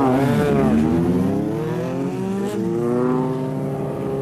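A vehicle engine revving: the pitch swings up and down in the first second or so, then holds at a fairly steady pitch.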